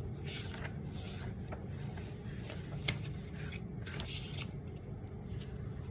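Soft rustling and scraping sounds in short bursts, with a small click about three seconds in, over a low steady hum.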